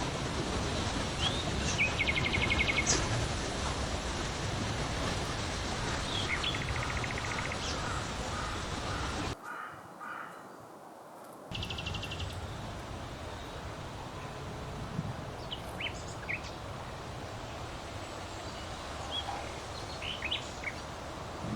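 Steady wind noise with birds calling and chirping over it. The wind cuts out abruptly for about two seconds near the middle, then returns softer.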